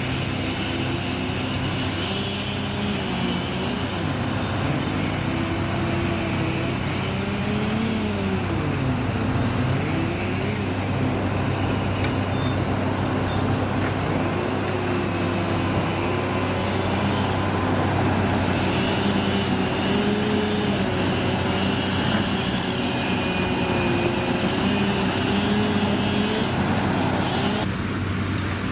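Heavy diesel engines of old trucks or construction machines running, with a steady low hum under an engine note that rises and falls again and again as they are revved or worked.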